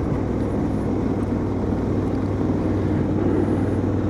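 A vehicle under way at steady speed: a constant engine hum under road and wind noise, with no change in pace.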